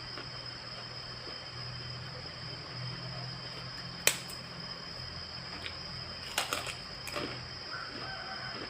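Eating sounds: a few sharp clicks and small crunches over a steady low hum, the loudest a single sharp click about four seconds in, then a short cluster of clicks a couple of seconds later.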